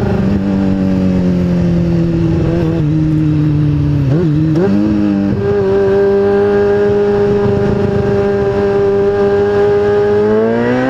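2003 Kawasaki ZX-6R's inline-four engine running under a ridden motorcycle, with wind noise. Its note sinks slowly, rises and falls quickly about four seconds in, steps up and holds steady, then rises again near the end as the throttle opens.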